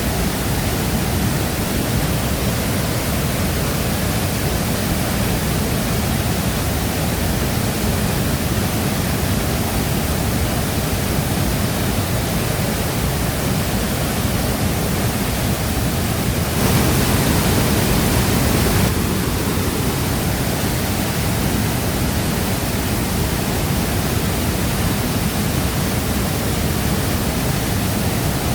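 Shifen Waterfall's falling water rushing in a steady, dense wash of noise, swelling louder for about two seconds a little past the middle.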